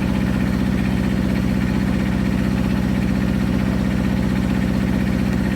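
Wood-Mizer LX25 sawmill engine idling steadily with an even firing rhythm.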